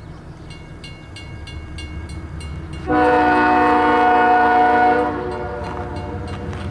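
Diesel locomotive horn sounding one long blast of about two seconds, a chord of several notes, starting about three seconds in over the steady low rumble of an approaching train, which grows louder throughout.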